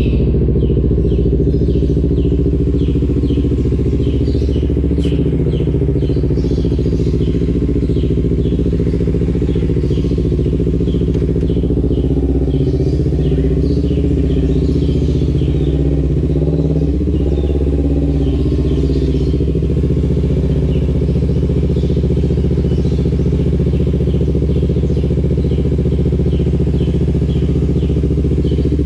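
Kawasaki Ninja 250FI's parallel-twin engine running through an aftermarket R9 H2 exhaust, a steady note whose pitch shifts slightly around the middle.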